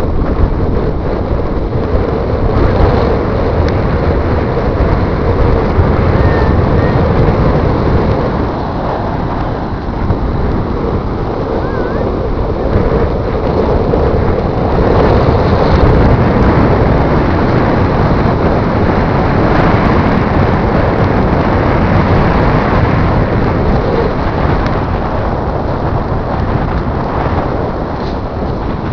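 Strong wind buffeting the microphone over the steady wash of ocean surf, a loud, rumbling rush that swells and eases.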